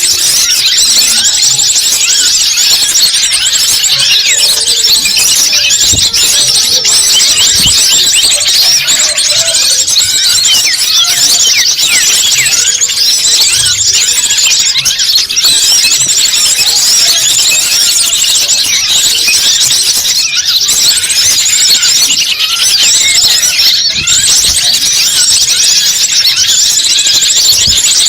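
A dense, unbroken chorus of many small birds chirping and twittering together, all high-pitched and overlapping: a bird-lure (pikat) recording meant to draw wild birds in.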